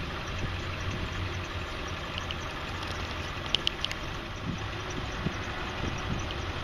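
Diesel engine of a 2002 Ford F550, a 7.3 L Power Stroke V8, idling steadily, with a few sharp clicks a little past halfway.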